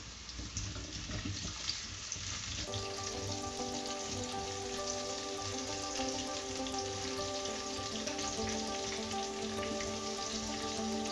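Carrot pieces sizzling and crackling in hot oil in a cooking pot. Soft background music with held notes comes in about three seconds in.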